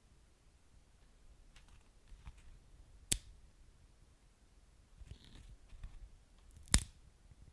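Wood fire burning in a fireplace, with soft scattered crackles and two sharp pops about three and a half seconds apart.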